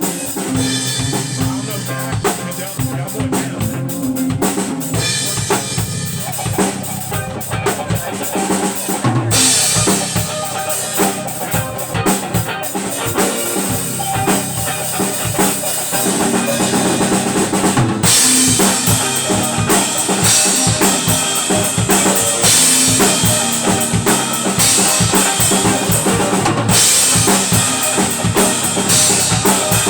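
Music led by a drum kit: kick drum, snare and rimshots in a busy, steady beat, with other instruments under it. Cymbals come in brighter and louder about a third of the way in and again past halfway.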